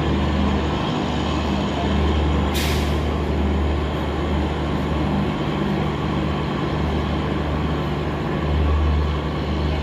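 Garib Rath express train moving slowly through the station, with a steady low engine hum throughout. A short hiss of air release comes about two and a half seconds in.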